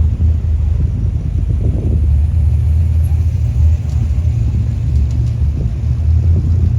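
A car engine idling with a loud, deep, steady rumble.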